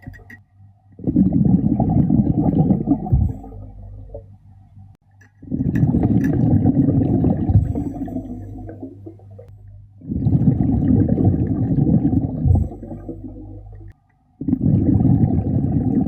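Scuba diver's breathing heard underwater: four bubbling rushes of exhaled air through the regulator, each about three seconds long and coming about every four and a half seconds, with quieter gaps for the inhale between them.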